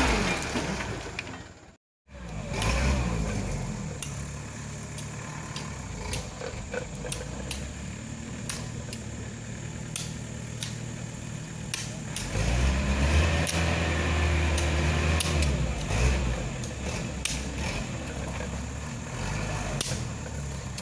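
Truck engine running steadily, with scattered knocks and rattles. The sound drops out for a moment about two seconds in, and the engine grows louder and heavier for a few seconds past the middle.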